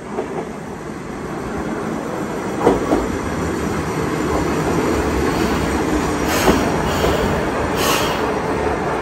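Hisatsu Orange Railway diesel railcar pulling into the station, its rumble growing louder as it approaches and draws alongside the platform. A couple of knocks about three seconds in, and two short high squeals from the wheels and brakes near the end as it slows.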